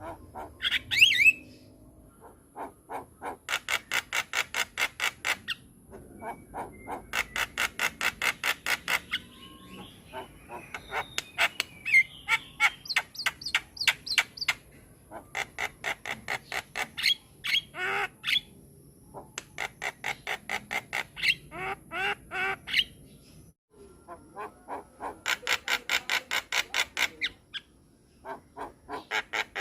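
Javan myna (jalak kebo) singing: runs of rapid harsh chattering notes, about five a second, each run lasting a few seconds, broken by squawks and rising whistled notes.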